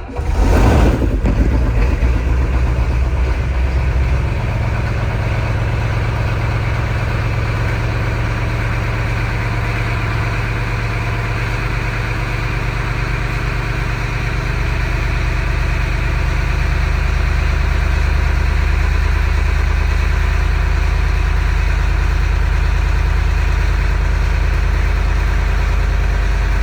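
Ford 7.3-litre IDI turbo diesel V8 cold-starting after glow-plug preheat: it catches right at the start, runs fast for about four seconds, then settles into a steady diesel idle.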